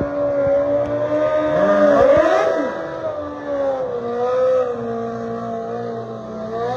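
Drag-racing motorcycle engines: a steady engine drone, with a loud surge of revving, pitch sweeping up and down, that peaks about two seconds in.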